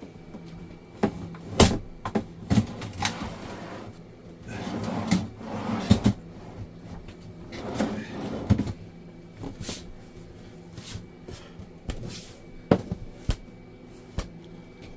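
An RV's front storage drawer being fitted back into its cabinet: a run of sharp knocks and clunks, then several longer sliding rubs as the drawer is worked in and out, and a few more knocks near the end.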